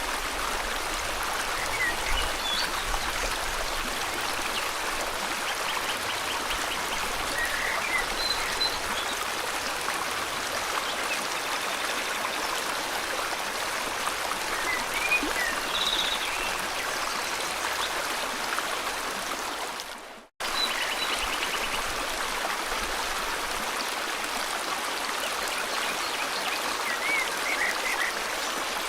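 Steady flow of river water with scattered bird chirps and a couple of short, buzzy trills over it. About twenty seconds in, the sound fades and drops out for a moment, then cuts straight back in.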